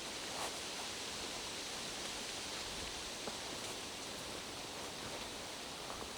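Steady hiss of rain falling through forest, with a few faint taps.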